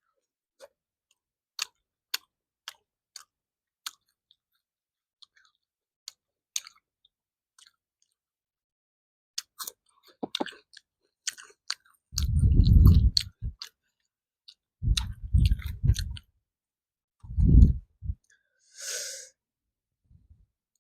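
Close-miked eating of matar paneer with puri and salad: scattered crisp mouth clicks and small crunches, then three louder, low, muffled bouts of chewing. A short breathy hiss comes near the end.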